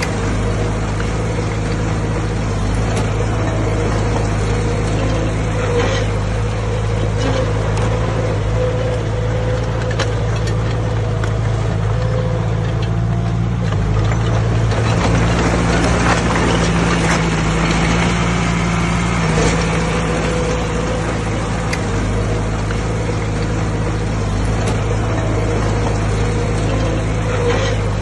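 Heavy diesel earth-moving machinery running steadily at a constant speed, with scattered short clanks and knocks over the engine.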